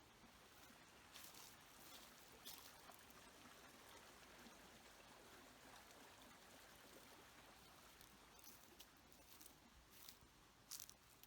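Near silence, with a faint hiss and a few scattered faint clicks and rustles; the strongest click comes near the end.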